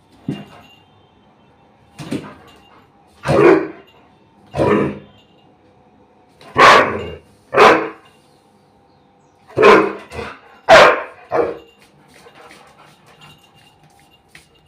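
A Labrador barking, about ten loud barks at uneven spacing, some in quick pairs, then quieter for the last few seconds.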